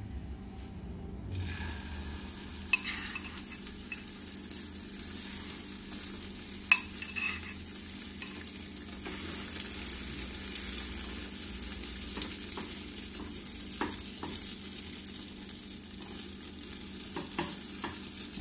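Spoonfuls of egg-and-nopal batter frying in hot oil in a skillet: a steady sizzle that starts about a second in, with a few sharp clinks of a metal spoon against the bowl and pan as the batter is dropped in.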